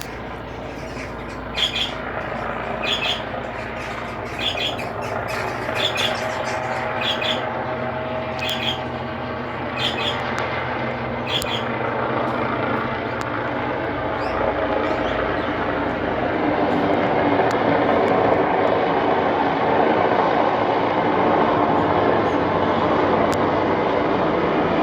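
Police helicopter's engine and rotor drone, steady and growing louder over the second half. Through the first half a bird gives short squawking calls about every second and a half.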